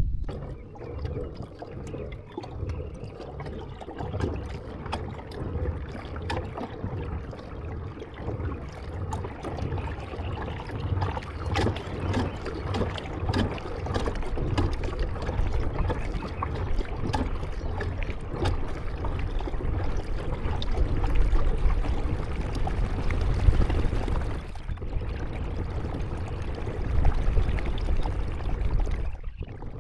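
Kayak paddling: the paddle blades dip and splash in a steady rhythm, water drips and trickles off them, and there are small knocks against the boat, over a low rumble.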